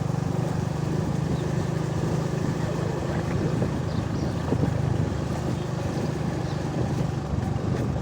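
Vehicle engine running steadily while travelling along a road.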